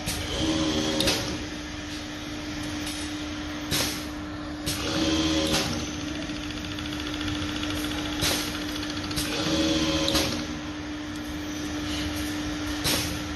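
Refrigerator pipe straightening and cutting machine running its automatic cycle: a steady motor hum, with a short whir and a sharp click or short hiss repeating about every four to five seconds, about three cycles in all.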